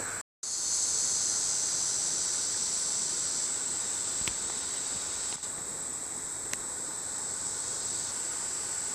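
Steady high-pitched drone of insects calling, louder for the first few seconds, with a few faint ticks.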